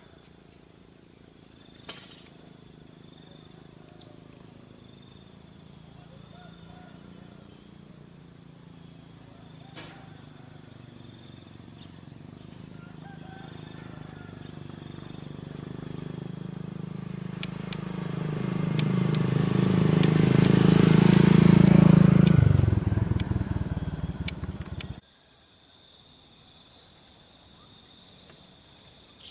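Steady high-pitched insect drone, crickets or cicadas, with a few faint bird chirps. From about twelve seconds in, a low engine-like hum swells over some ten seconds to its loudest near the end, then fades and cuts off abruptly.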